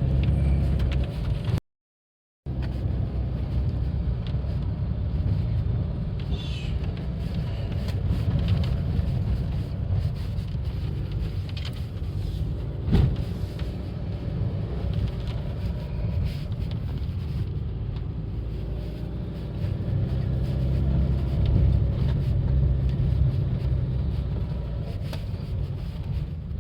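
Car climbing a steep, rough mountain road: a steady low rumble of engine and tyres over the bad surface, with small knocks, broken by a brief dead silence about two seconds in.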